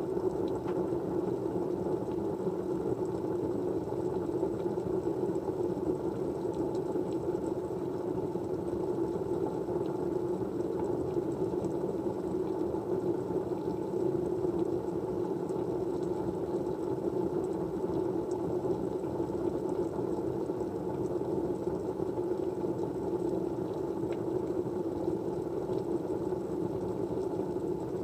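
Steady background white-noise track: an even, low-pitched rushing hiss that holds unchanged throughout.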